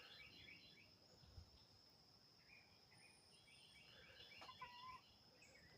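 Faint peeping of young chickens: runs of short high chirps near the start and again from about two and a half seconds in.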